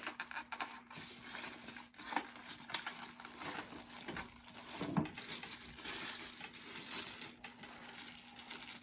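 Packaging crinkling and rustling in irregular bursts with small clicks and taps, as a model passenger car is pulled out of its box and unwrapped.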